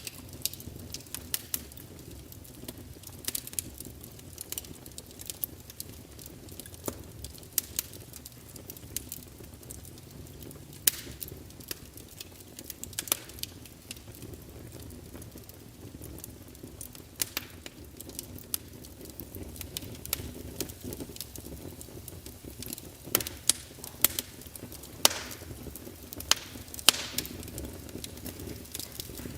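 Crackling fire: irregular sharp pops and snaps over a steady low rumble of burning wood.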